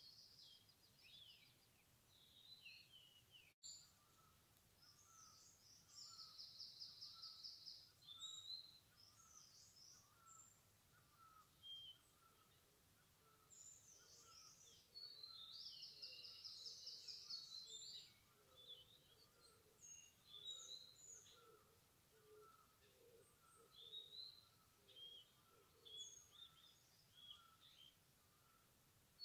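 Faint chorus of several small forest birds: scattered high chirps and calls, with two rapid trills of about two seconds each. Under them a soft note repeats steadily about every half second.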